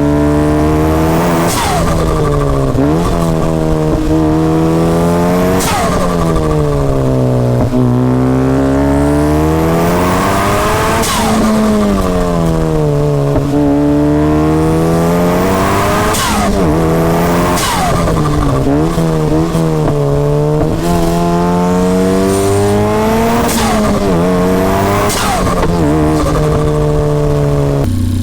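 Ariel Atom 4's turbocharged 2.0-litre four-cylinder engine breathing through a titanium aftermarket exhaust, driven hard. The revs climb and fall again and again over several seconds at a time, with sharp jumps in pitch at each of about eight gear changes.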